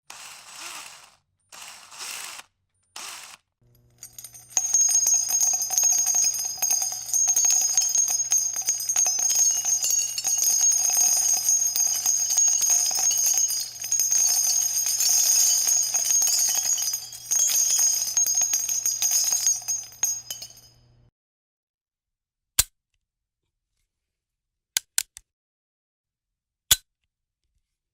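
A bell rung by very rapid repeated strikes, with a steady high ringing, for about seventeen seconds, then a few single sharp clicks near the end. A few short rushing sounds come before it.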